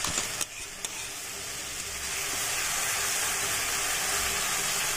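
Onion-tomato masala frying in oil in a kadhai: a steady sizzle that grows louder over the first couple of seconds, then holds. A few light knocks of the spatula against the pan come near the start.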